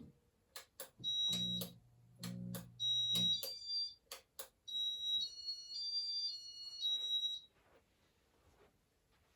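Casablanca California Zephyr ceiling fan's electronic control starting demo mode: sharp clicks and a few high beeps over a low hum, then a short electronic beeping tune of several stepped notes lasting about two and a half seconds.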